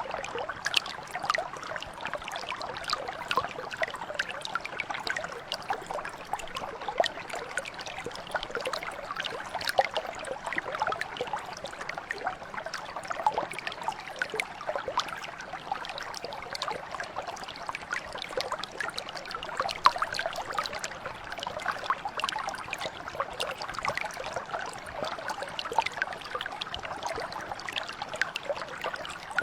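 Shallow mountain brook flowing over stones, a steady babble thick with small splashes and trickles.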